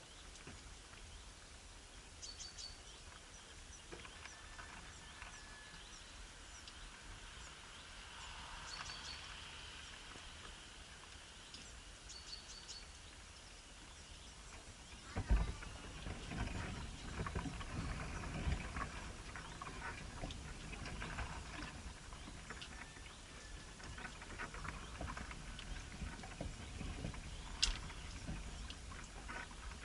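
A small bird chirping: short, high double notes repeated every few seconds. About halfway through, a run of rustling and knocks takes over, with a sharp knock at its start and another near the end.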